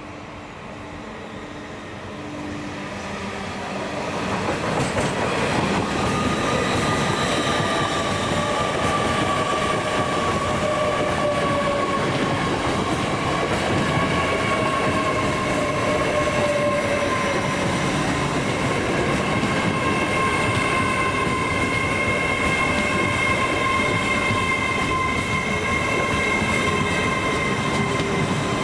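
A train passing close by: it builds over the first few seconds and then runs loud and steady, with wheels clattering on the rails and several long, steady high tones that drift slowly in pitch.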